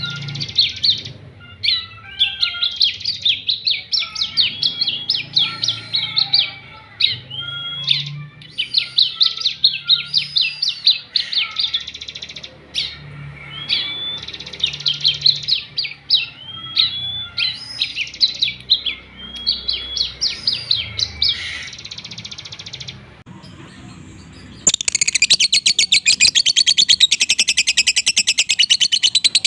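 Small songbird singing: repeated phrases of quick chirps and sliding notes, then, after a short pause near the end, a louder, very rapid buzzing trill.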